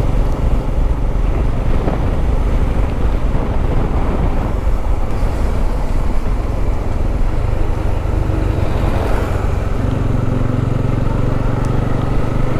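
Motorcycle riding at road speed: the engine runs under steady wind rush on the microphone. Its even note comes through more clearly near the end.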